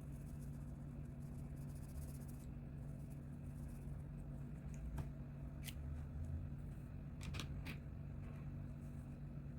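Coloring on paper: faint scratching strokes for the first couple of seconds, then a few small sharp clicks and taps from handling the coloring tools, three in quick succession near the end, over a steady low hum.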